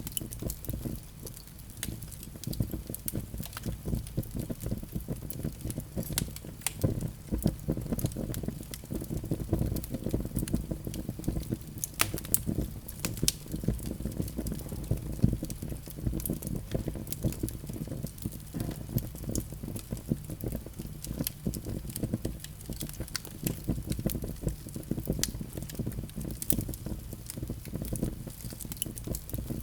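Fire in a fireplace crackling, with frequent sharp snaps and pops over a steady low rumble of the flames.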